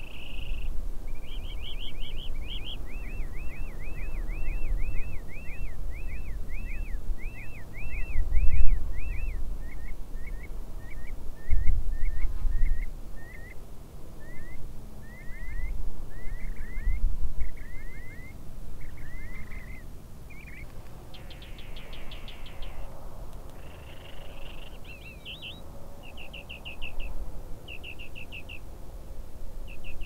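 Birds chirping in long runs of repeated notes, about two chirps a second, then quicker trills and short bursts near the end. Under them is a low rumble that swells loudest about eight seconds in and again near twelve.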